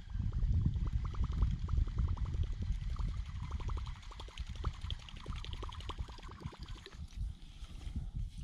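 Water sloshing and gurgling against a kayak's hull, strongest in the first few seconds, with a fast run of light ticks, several a second, that fades near the end.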